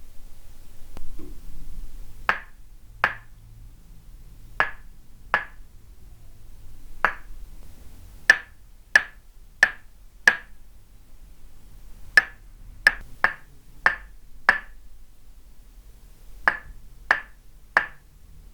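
Tok sen massage: a wooden mallet striking a wooden peg held against the body, sharp wooden knocks with a short ring. About seventeen strikes come in pairs and short runs with pauses between.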